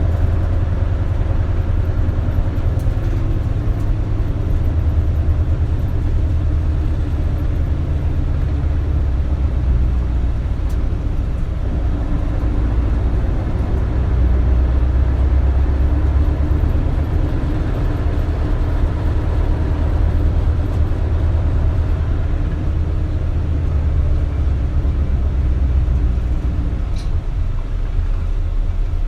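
Isuzu Erga city bus (KL-LV280L1) under way: its diesel engine and drivetrain make a steady low drone that swells and eases with the throttle.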